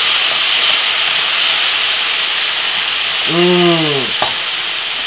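Meatballs and spring onion sizzling as they fry in a nonstick frying pan, stirred with a wooden spatula. A single sharp click comes about four seconds in.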